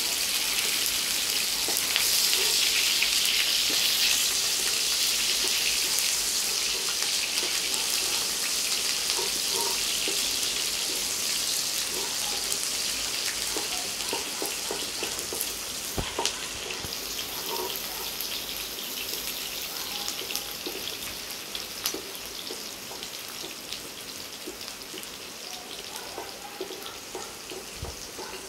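Sliced onions sizzling in hot cooking oil in a metal pan. The hiss is loudest at first and slowly dies down as the onions fry, with a few sharp knocks of a wooden spoon stirring against the pan.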